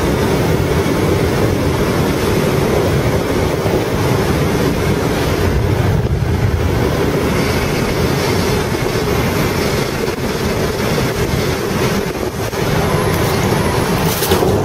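Steady rushing airflow noise inside a light aircraft's cabin as it glides in for a forced landing, its engine seized and propeller stopped, with no engine sound. The noise dips briefly near the end, then grows louder.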